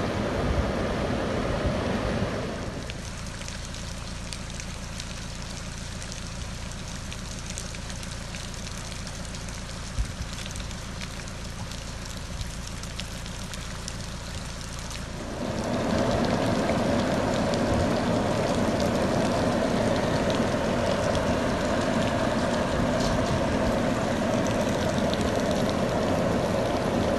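Rain falling and floodwater running in a street: a steady rushing noise sprinkled with the ticks of drops. It drops in level about two and a half seconds in and comes back louder about fifteen seconds in.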